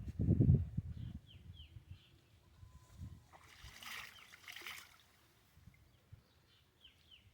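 Water splashing and sloshing for about a second and a half midway, with a small bird giving short falling chirps in pairs about a second in and again near the end.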